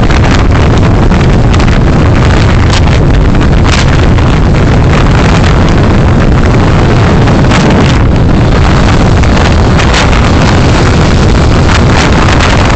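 Loud, steady road and wind noise from a moving car, picked up by a dashcam microphone, with frequent short crackles throughout.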